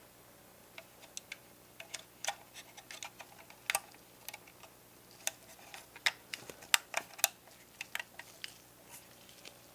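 Irregular sharp little clicks and taps from the small parts of a miniature model truck being handled and worked on by hand. They come in quick clusters and are thickest and loudest a little past the middle.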